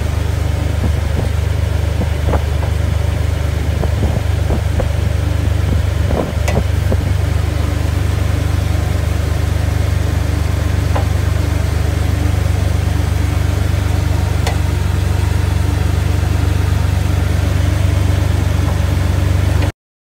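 Jeep LJ's 4.0-litre straight-six idling steadily while the front wheels are steered lock to lock to bleed air from the newly installed power steering system. A few sharp clicks stand out over the engine hum.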